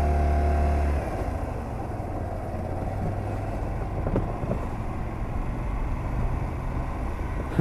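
Honda Varadero 125's small V-twin engine running with a steady note that drops away about a second in, then the bike carries on at low revs.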